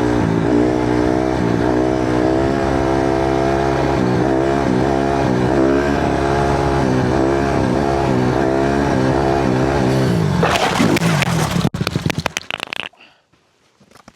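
Honda CRF150R dirt bike's 150cc four-stroke single running hard under throttle, its pitch rising and falling slightly, for about ten seconds. Then scraping and clattering for a couple of seconds and the engine cuts out, as the bike loops out of a wheelie and goes down.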